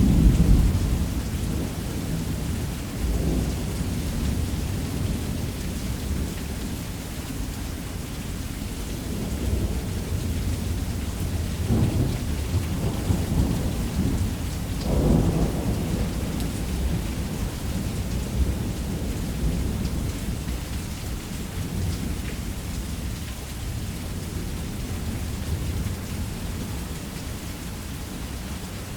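Heavy rain drumming steadily on a roof, with rolling rumbles of thunder: the loudest right at the start, then more rumbles a few seconds in and around the middle.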